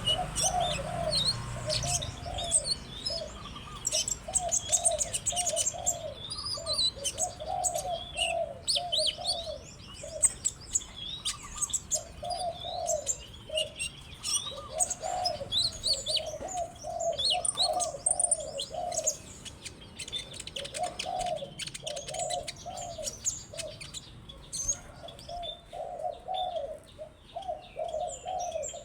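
Birdsong: a sunbird's quick, high twittering chirps and trills, over a low cooing note repeated in short runs of four to six with pauses between.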